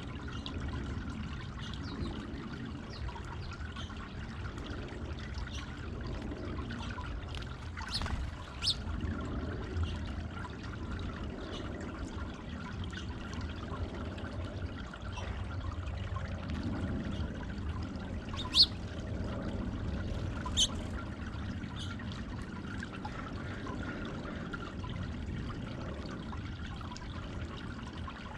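Water steadily trickling and pouring over a stone-boulder garden fountain. A few short, sharp high chirps stand out above the water, the loudest about two-thirds of the way through.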